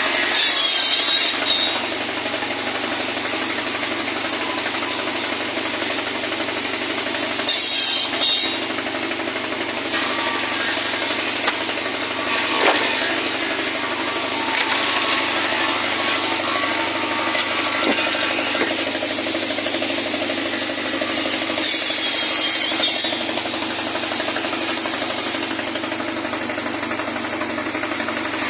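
Pallet-wood cutting saw machine running steadily, with three brief, harsher bursts as it cuts through wood: about a second in, around eight seconds in and about twenty-two seconds in.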